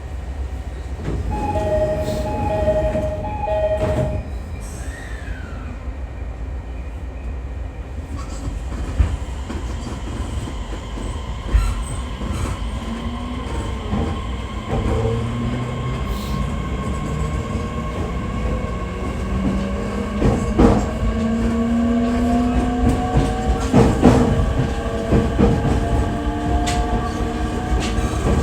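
Inside an electric commuter train: a two-tone chime or signal sounds near the start over the rumble of the car. From about twelve seconds in, the traction motors whine in several slowly rising tones as the train gathers speed, with a few sharp knocks from the wheels and rails.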